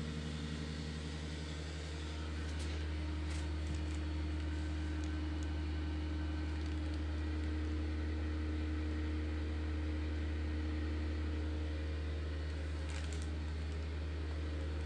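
Steady low electric hum from a homemade refrigerator egg incubator, with a few faint clicks about two to three seconds in and again near the end.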